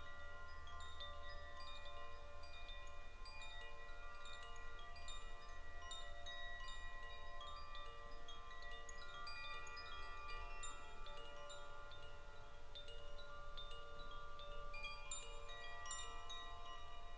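Chimes ringing: many clear, sustained notes at different pitches, struck at staggered moments and overlapping, over a steady low hum.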